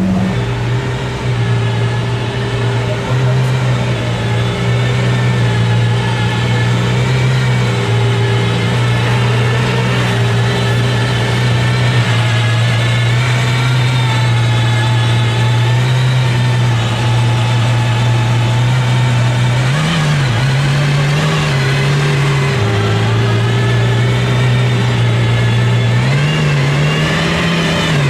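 A car engine running steadily at low revs, with brief rises and dips in pitch later on, and voices in the background.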